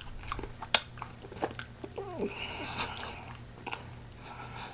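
Close-miked mouth sounds of a person chewing pig feet: wet smacking and sharp clicks of lips and teeth, the loudest click a little under a second in, and a short sound falling in pitch about two seconds in.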